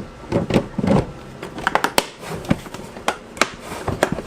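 Irregular clicks and knocks of hard plastic as the Milwaukee M18 wet/dry vacuum's housing is handled.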